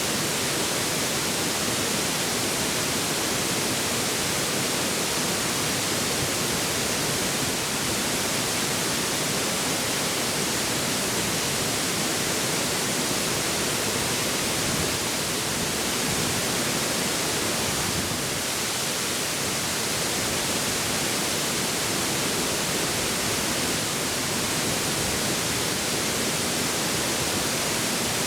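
River water flowing over rocks: a steady, even rush and hiss with no breaks.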